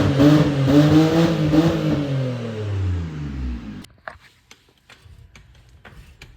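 A BMW E90's freshly swapped engine running and being revved, its pitch rising and falling, then a longer rev that sweeps up and falls away. About four seconds in, the sound cuts off abruptly, leaving quiet scattered clicks and knocks.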